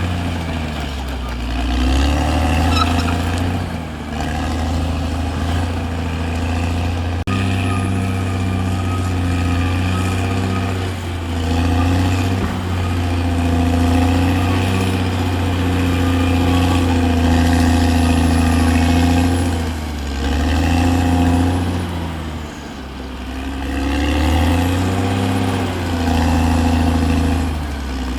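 Caterpillar D6R bulldozer's diesel engine running under working load, its pitch and loudness rising and falling several times.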